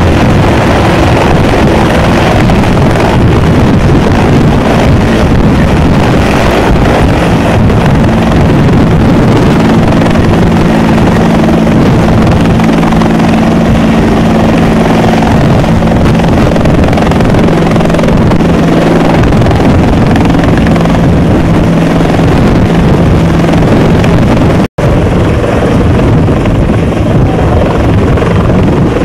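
Helicopter engine and rotor noise, loud and steady, with a steady low hum through the middle. It cuts out for an instant near the end.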